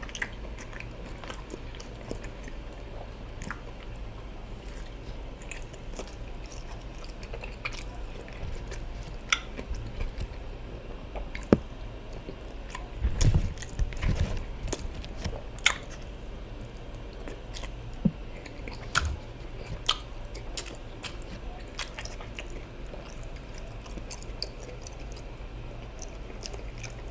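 Close-miked chewing and biting of a meal of ofada rice with stew, plantains and fish, with scattered small mouth clicks and a few louder knocks about halfway through.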